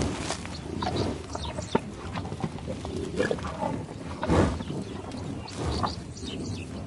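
Animal calls, coming irregularly, with the loudest one about four and a half seconds in.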